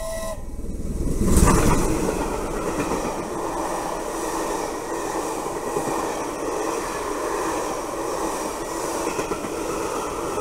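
A steam-hauled passenger train passing close on the rails. There is a loud surge about a second and a half in as the front of the train goes by, then the steady noise of the coaches' wheels running past.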